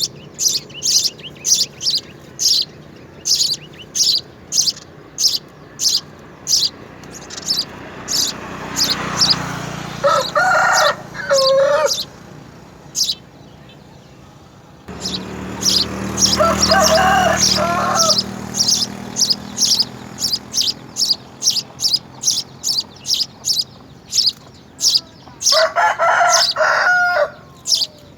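A small bird chirping over and over, short high chirps about twice a second, while a rooster crows three times, each crow lasting a second or two.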